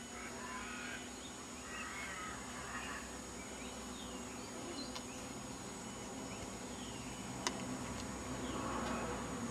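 Birds calling, with short chirps and patchy calls scattered throughout, and a single sharp click about seven and a half seconds in.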